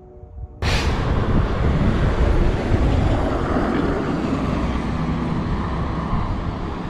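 Road vehicle noise: a steady engine-and-tyre rumble with hiss, cutting in suddenly about half a second in.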